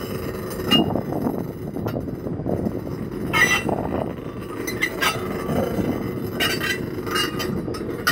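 A slow-moving train of rail cars rolling over street track: a steady low rumble with intermittent metallic clinks and short squeals from the wheels and running gear, several of them in the second half.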